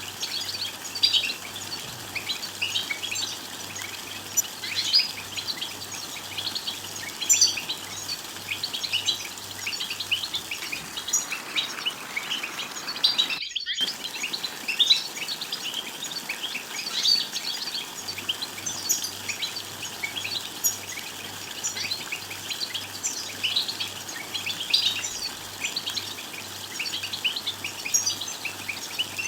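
European goldfinches twittering: a dense run of short, high chirps and tweets, the kind of call played to set caged male goldfinches singing. The sound drops out for a moment about thirteen seconds in.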